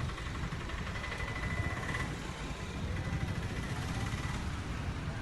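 Steady rumble of road traffic, with vehicle engines running.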